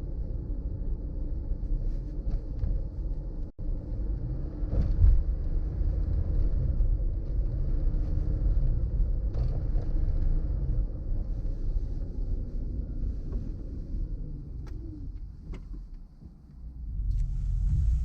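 A car driving on the road: a steady low rumble of engine, tyres and wind. It cuts out for an instant about three and a half seconds in, and fades briefly near the end before rising again.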